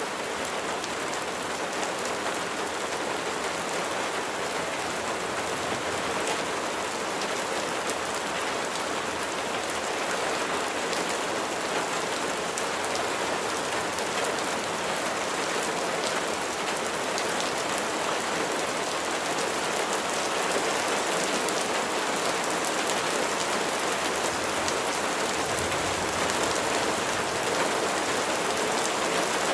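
Steady rain falling: an even hiss with fine scattered drop ticks, growing slightly louder toward the end.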